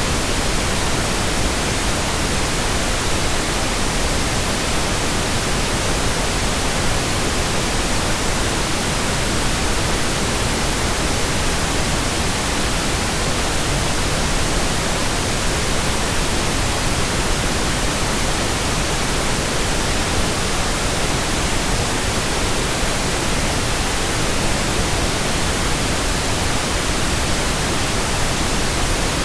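Steady, unbroken white noise: an even hiss spread across all pitches, with no changes or events.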